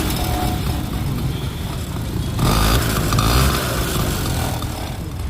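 1986 TVS XT two-wheeler engine running after a full rebuild, blipped louder for about a second midway. It runs smoothly, without rough noise.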